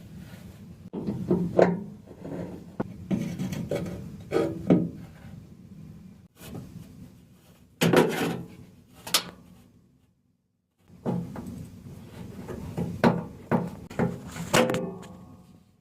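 Repair handling noise on a washing machine during a shock-absorber replacement: knocks, clunks and scraping of parts being worked by hand. It comes in three bursts with short pauses between them.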